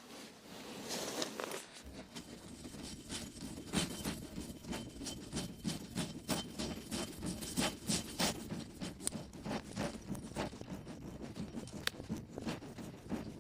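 Irregular crackling, rustling and scraping of dry twigs and leaf litter, as of someone moving about and handling dead wood on a forest floor.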